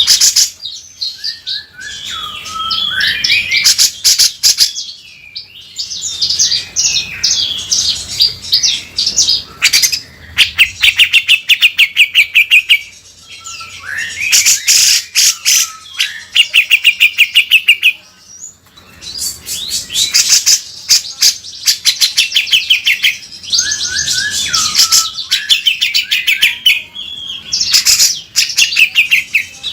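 Grey-cheeked bulbul (cucak jenggot) singing hard in repeated bouts: fast, harsh rasping rattles mixed with warbled phrases, broken by short pauses.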